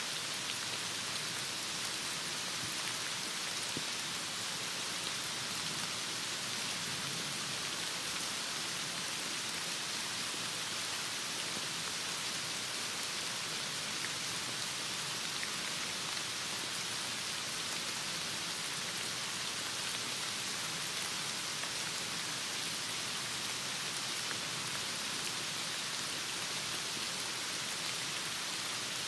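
Heavy rain falling steadily, a constant hiss of rain without let-up.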